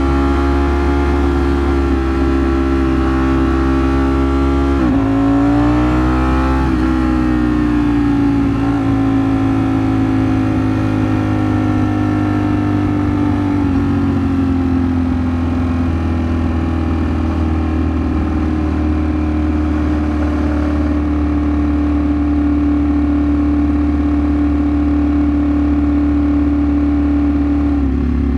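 Ducati Streetfighter V4 S's V4 engine running on the road. Its pitch dips and climbs again about five seconds in, then holds steady at a constant cruising speed for most of the stretch.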